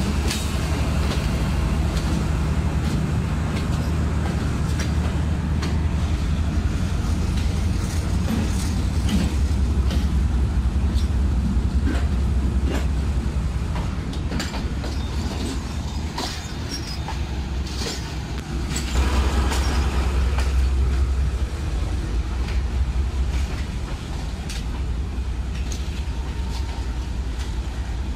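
Pakistan Railways passenger coaches rolling slowly on parallel station tracks: a steady low rumble with scattered clicks and knocks from the wheels over the track, and a brief louder stretch about two-thirds of the way through.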